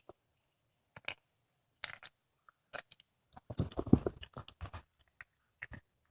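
Cat chewing and crunching through a squirrel carcass: scattered sharp bites, then a dense run of crunching about three and a half seconds in.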